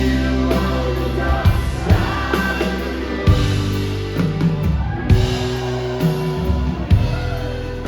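Live rock band playing: drum kit, bass and electric guitar with keyboards, at a slow, steady tempo.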